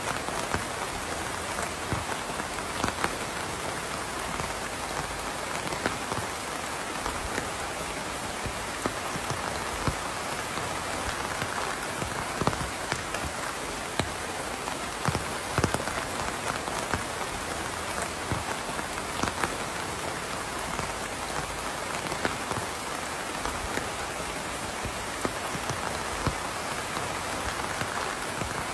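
Steady rain falling on a surface: an even hiss with frequent individual drops ticking and splatting throughout.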